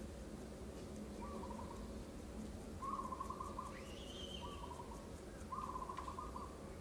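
A bird calling: four short trilled notes, repeated about every second and a half, with the second and fourth louder. A brief rising whistle comes about four seconds in.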